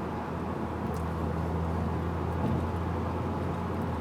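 Audi A4's 2.0T turbocharged four-cylinder running steadily through a stainless-steel turbo-back dual exhaust with a high-flow cat: a low, even drone with no revving.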